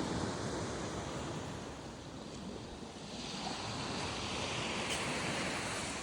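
Steady rushing noise with no distinct events; a brighter hiss swells about halfway through.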